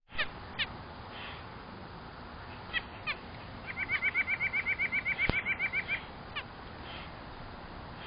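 Small songbirds calling: a few short, quick downward chirps, then a rapid trill of about nine repeated notes a second lasting a couple of seconds. A single sharp click sounds about five seconds in.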